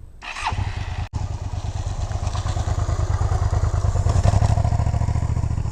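Motorcycle engine running with rapid, even firing pulses. It comes in abruptly just after the start, cuts out for an instant about a second in, then runs on and gets a little louder over the next few seconds.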